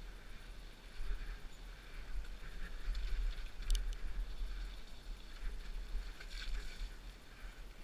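Riding a mountain bike on a dirt trail: wind rumbling on the action camera's microphone, with the bike's rattles and a few sharp clicks.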